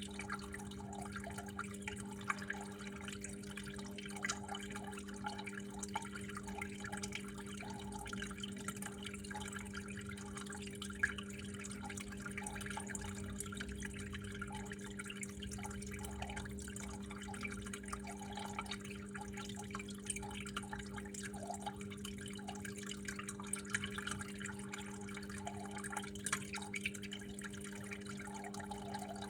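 Water flowing and dripping in a steady stream of small irregular drips and splashes, over a constant low hum.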